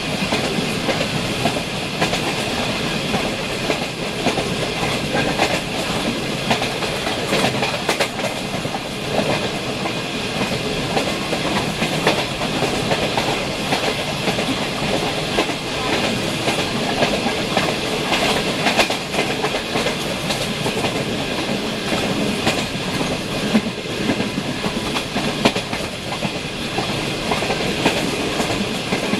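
Passenger train running at speed, heard from inside the carriage: a steady rumble of wheels on the rails with the clickety-clack of rail joints.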